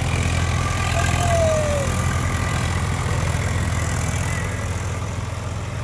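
Tractor engine running steadily at a low, even speed. A short, falling whistle-like tone sounds over it about a second in.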